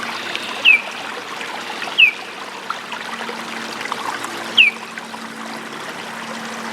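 A bird gives a short, high, down-slurred call three times, a second or two apart, over the steady trickle of running water.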